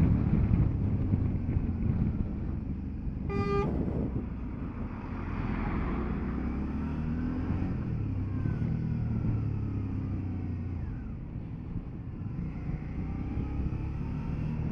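Motorcycle engine running under way with wind noise, its note shifting as the bike rides through bends. A short horn toot about three seconds in.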